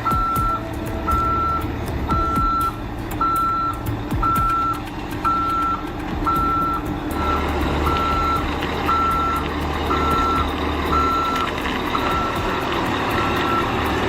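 Reversing alarm on a 6x6 heavy truck beeping steadily, just under two beeps a second, over the truck's diesel engine running as it backs up. The engine gets louder about halfway through.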